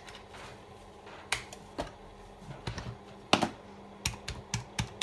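Keys being pressed on a computer keyboard: irregular typing clicks, sparse at first and quicker in the second half, with the loudest strokes around the middle, over a faint steady hum.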